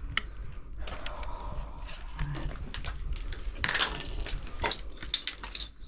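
Irregular clicks, crackles and rustling over a steady low rumble, with a denser burst of crackling about two-thirds of the way through: the noise of people moving about and handling things among debris.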